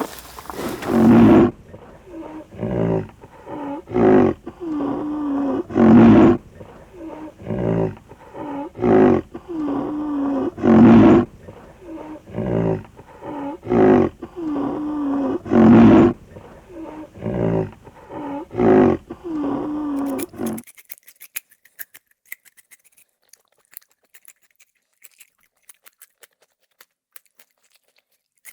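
A large animal calling over and over, about one loud pitched call every two seconds with quieter ones between, stopping abruptly about twenty seconds in; faint clicking follows.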